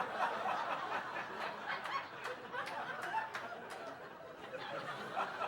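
Comedy club audience laughing, a spread-out crowd laugh with a few scattered claps.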